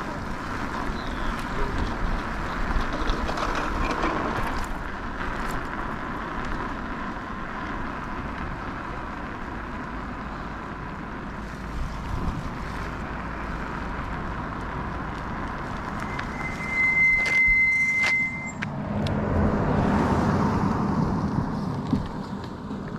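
Riding noise from an e-bike: steady wind rush and tyre noise on the microphone, with a faint steady whine throughout. A high steady beep lasts about two seconds late on, followed by a louder swell as a car passes.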